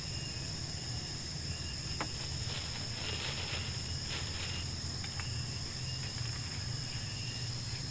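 Night insects, crickets, trilling in one steady high-pitched drone, with a couple of faint clicks.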